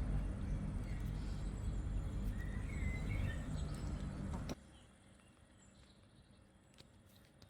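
Outdoor background noise: a steady low rumble with a few faint bird chirps, which cuts off abruptly about four and a half seconds in and leaves the sound much quieter.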